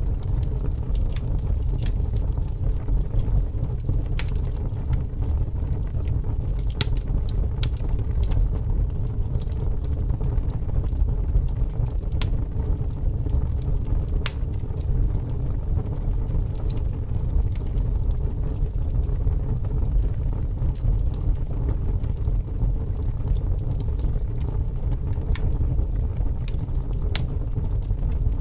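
A fire burning: a steady low rumble with scattered sharp crackles throughout.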